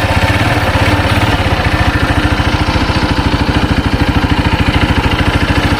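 Automatic ATV engine idling steadily, an even rapid chugging with no revving.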